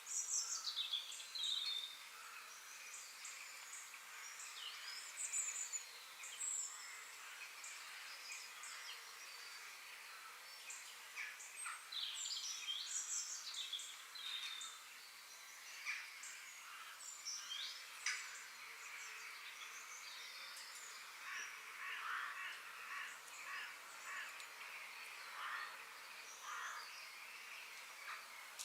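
Forest ambience: many birds chirping and calling, short high chirps and trills, some falling in pitch, over a faint steady hiss.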